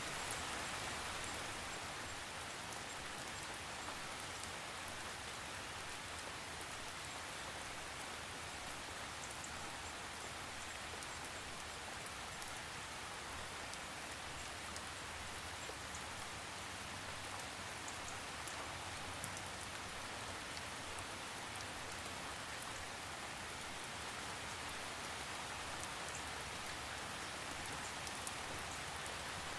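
Steady rain falling, an even hiss of drops with fine scattered patters and no thunder.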